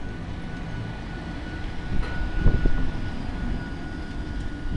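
A Hungarian MÁV V43 electric locomotive passing close by at the head of a train: a low, continuous rumble of wheels on rail with a steady high whine over it, and a few louder wheel knocks about halfway through.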